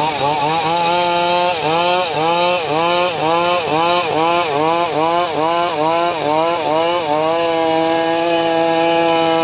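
Homemade srekel power saw cutting mahogany. Its pitch dips and recovers about twice a second as the saw is loaded by the cut, then it settles into a steady, unloaded pitch near the end.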